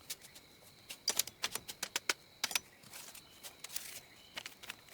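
A run of irregular sharp clicks and taps, thickest between about one and two and a half seconds in, over faint steady high-pitched tones.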